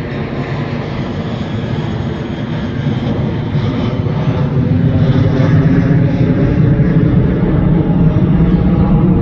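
Large airplane's engines, a steady low rumble that grows gradually louder as the plane passes on departure.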